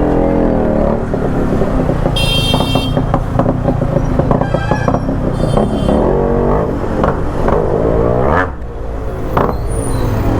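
Modified two-stroke motorcycle engine revving again and again through its exhaust, the pitch rising and falling with each blip of the throttle.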